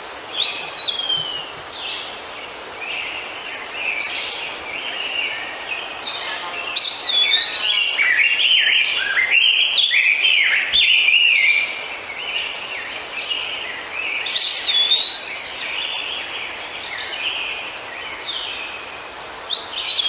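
Several birds singing and chirping, with overlapping short whistled calls that sweep up and down in pitch over a steady background hiss; the calls are busiest a little before the middle.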